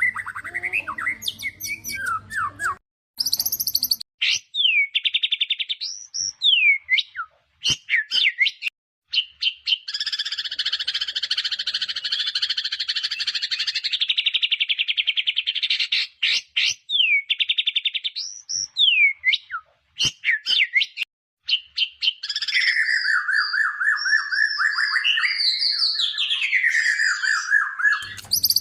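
White-rumped shama (murai batu) singing in a loud, varied song of rapid trills, buzzy rattles and falling whistled notes, in phrases broken by short pauses.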